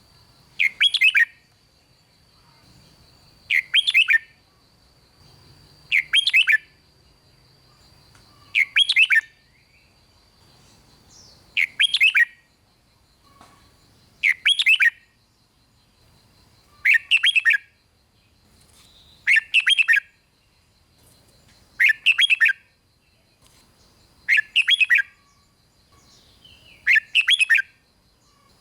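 Red-whiskered bulbul singing the same short, quick phrase over and over, about once every two and a half seconds.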